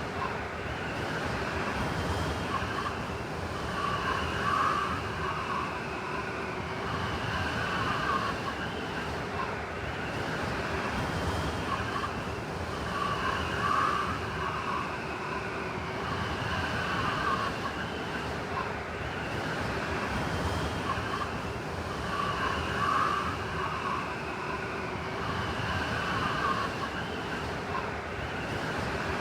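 Blizzard wind blowing steadily, with a whistling howl that swells and eases in gusts about every nine seconds.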